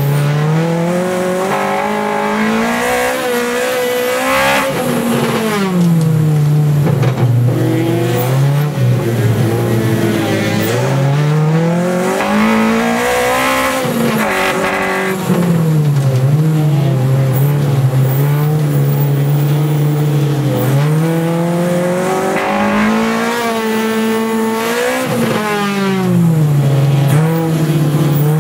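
Honda K20 four-cylinder engine of a Civic ice-racing car, heard from inside the cabin, revving up and dropping back over and over as the car accelerates and lifts on the ice.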